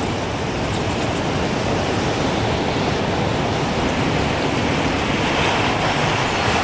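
Gusting wind rushing in a steady, full noise that builds slightly, with a few faint high wind-chime tinkles near the end.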